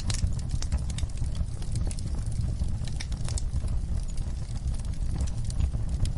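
Wood fire crackling in a fireplace: irregular sharp pops and snaps from the burning logs over a low steady rumble of the flames.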